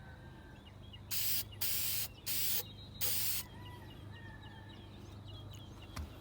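Aerosol spray can of clear lacquer giving four short hissing bursts, each under half a second, as a coat of clear is sprayed on.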